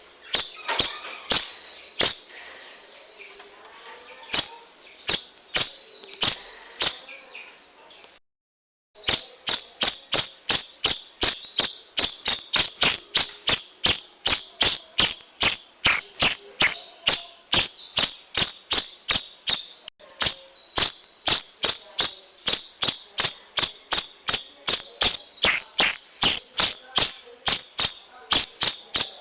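Cucak rawis bird calling in a fast, unbroken run of sharp, high-pitched chirps, about two a second at first and about three a second after a brief silent break about eight seconds in.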